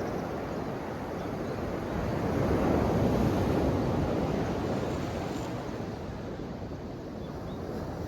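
Ocean waves: a wave swells in to its loudest about three seconds in, then washes back and fades.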